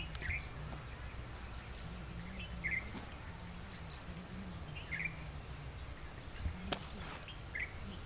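A bird chirping faintly outdoors: four short chirps, each a couple of seconds apart, over a quiet background hum. One sharp click sounds a little before the end.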